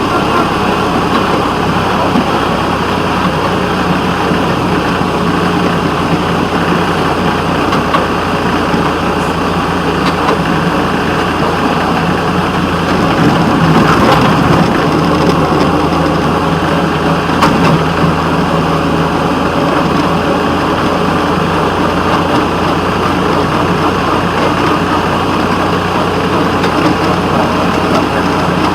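WCRG 6634 locomotive running steadily under way, its engine drone mixed with rolling rail noise, a little louder for a few seconds about halfway through.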